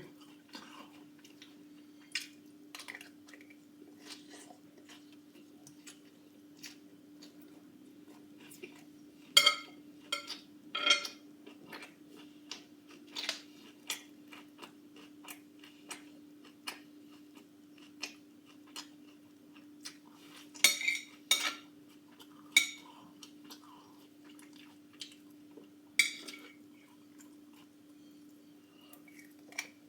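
Eating utensils clinking and scraping against a dish at irregular intervals, with chewing between, as someone eats a salad. A steady low hum runs underneath.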